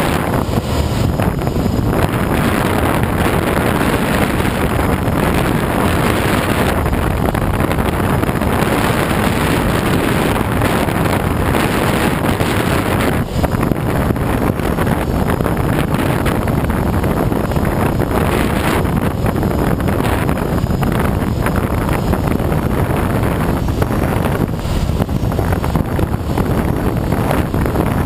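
Steady, loud rush of airflow around a Schweizer SGS 2-33A glider in flight, buffeting the microphone, with no engine tone standing out.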